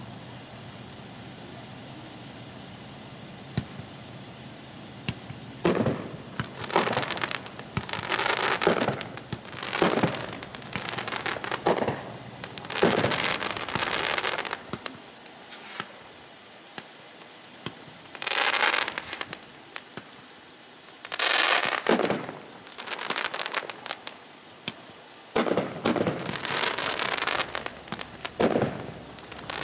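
A Light Brigade 500-gram consumer fireworks cake firing its shots. Aerial shells break with sharp reports in clusters of several, some trailing into dense crackle, with gaps of a second or more between clusters. The first bursts come about five seconds in.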